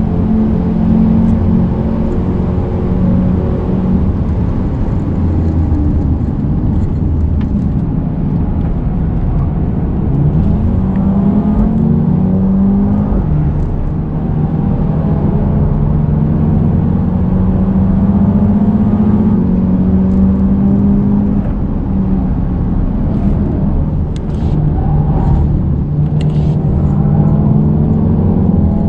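Mercedes-AMG A35's turbocharged 2.0-litre four-cylinder engine under hard track driving, heard from inside the cabin. Its pitch repeatedly climbs under full throttle and drops at gear changes and braking, with short lifts about 14 and 24 seconds in.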